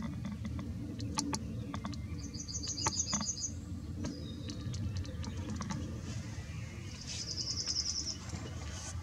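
A small bird's short, high trill, heard twice: about two seconds in and again about seven seconds in, over a low steady rumble, with a few small clicks near the start.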